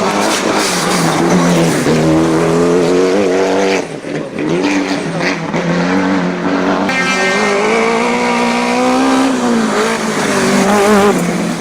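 Rally cars' engines running at high revs on a stage, the pitch rising and falling with throttle and gear changes. The sound breaks off abruptly about four seconds in, and another car's engine takes over.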